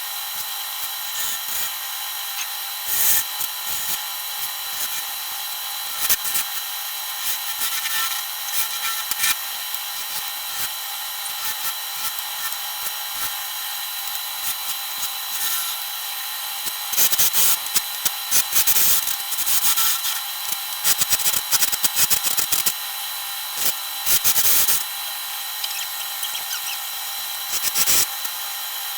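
Wood lathe running with a steady motor whine. Scraping spells come and go as a turning tool cuts into the spinning wood, the longest and loudest in the second half.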